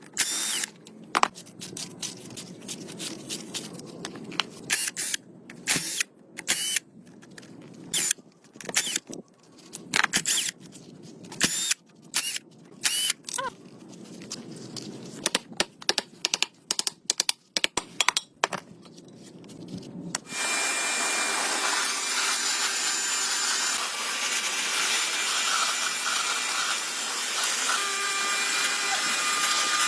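Sharp, irregular clicks and knocks, then about twenty seconds in a power tool starts and runs steadily.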